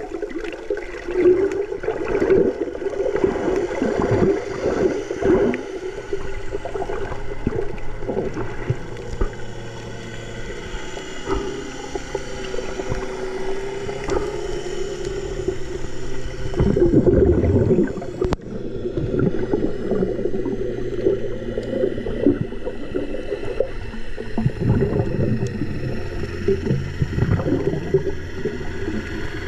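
Water sloshing and gurgling over a steady motor hum, with louder surges of splashing now and then.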